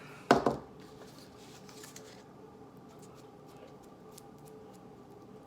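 A single sharp knock about a third of a second in, followed by faint scattered small clicks of handling at a work table.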